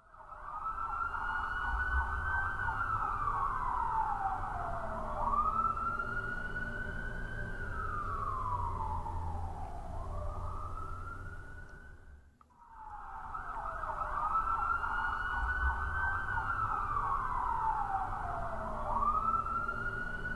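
Emergency-vehicle siren wailing in slow rising and falling sweeps, about one every five seconds, over a low rumble. It fades out briefly a little past the middle, then comes back.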